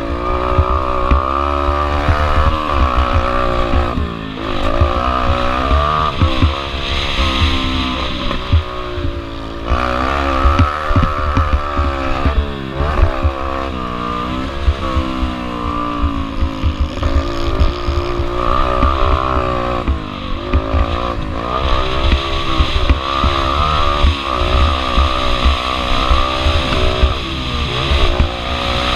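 Small pit bike engine, a Yamaha TT-R125L four-stroke single, revving up and falling back again and again as the throttle is opened and shut, with several short dips. Wind buffets the microphone throughout.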